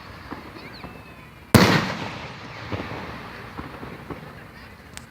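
A firework shell bursting with one sharp bang about one and a half seconds in, its rumbling echo fading over the next two seconds, with a few smaller pops scattered around it.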